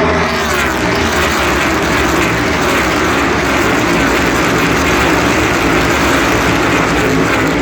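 A pack of NASCAR Cup Series cars passing at racing speed, their V8 engines merging into one loud, continuous noise. Several engine notes drop in pitch as individual cars go by.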